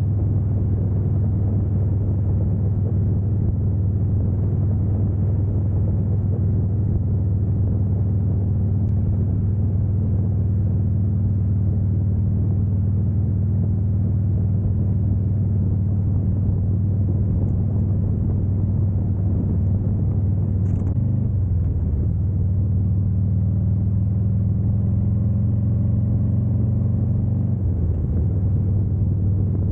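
Harley-Davidson Heritage Classic 114's Milwaukee-Eight V-twin running steadily at cruising speed, heard from the bike. Its note dips briefly and picks up again about two-thirds of the way through and again near the end.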